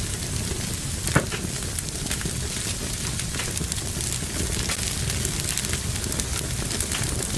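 Wood fire burning in a fireplace: a steady low rumble and hiss with scattered crackles and pops, one sharper pop about a second in.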